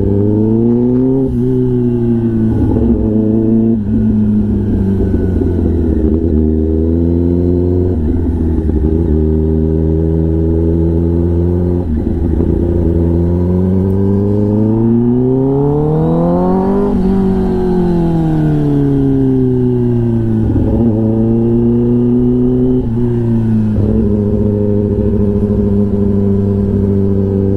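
Kawasaki ZX-10R's inline-four engine running through an SC-Project aftermarket exhaust while riding. Its pitch climbs and drops again and again with throttle and gear changes, then rises in one long climb past halfway and falls away steadily as the bike slows.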